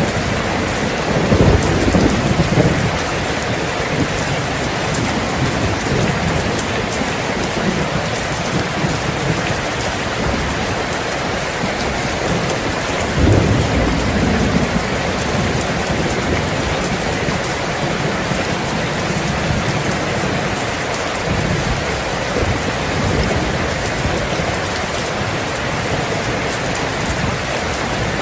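Steady heavy rain falling, with low rolls of thunder: the clearest about a second in and again about thirteen seconds in, weaker ones past the twenty-second mark.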